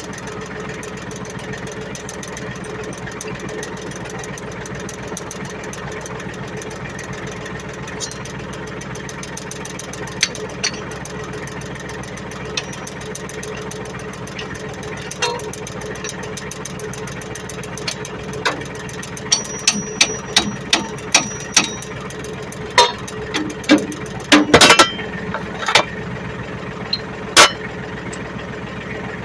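Ford 1720 tractor's three-cylinder diesel engine idling steadily, with a scattering of sharp knocks and clanks that grow more frequent in the second half and are loudest about three quarters of the way through.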